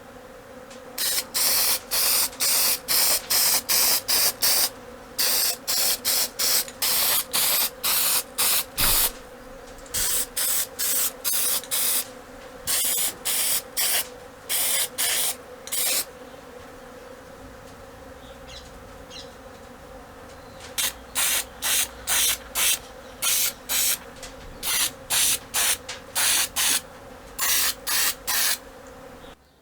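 Spray hissing in many short, quick bursts, in three runs separated by pauses, over a steady low hum.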